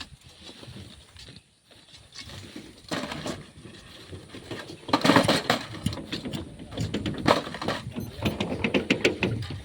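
Irregular knocks, scrapes and clinks of hand work digging and loading sand and stones, with the loudest burst of knocks about five seconds in and a quick run of small clinks near the end.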